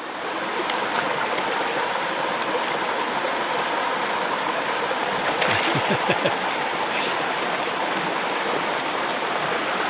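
Mountain stream rushing in a steady, even wash of water noise that swells in during the first half second.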